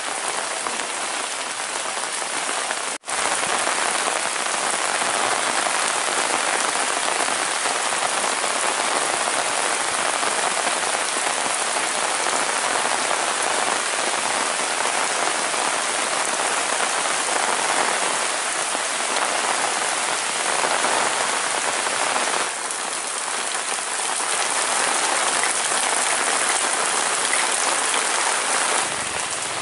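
Steady rain falling on wet paving and leaves, a dense even hiss. It cuts out for an instant about three seconds in and settles at a slightly different level about two-thirds of the way through.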